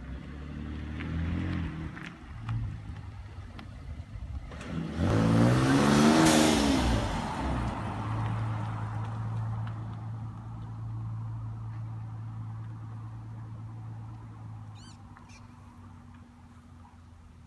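Ford Taurus SHO's twin-turbo V6, running through a deleted muffler, revs up once about five seconds in, loud with a wide rush of noise at its peak, then drops back and idles steadily, fading toward the end.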